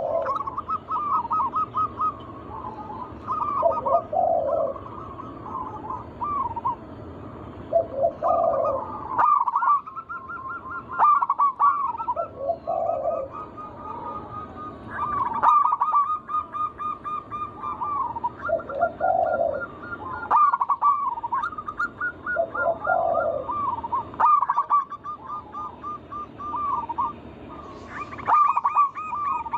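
Zebra doves cooing in repeated phrases of quick, wavering notes, with a deeper note roughly every four seconds.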